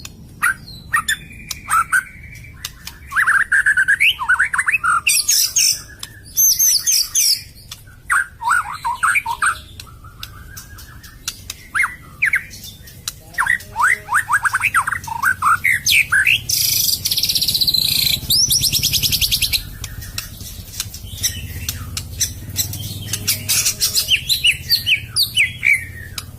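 White-rumped shama (murai batu) singing: bursts of rapid, sweeping whistled phrases separated by short pauses, with a long high buzzy trill in the middle. This is the shama song used as a lure (pikat) call.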